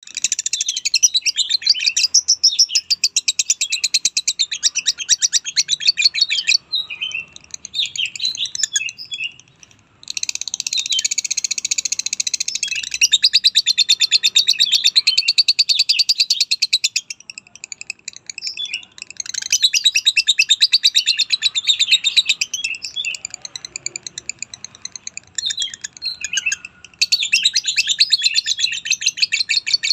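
Lovebird chattering: long runs of rapid, high-pitched chirps, broken a few times by sparser, quieter calling.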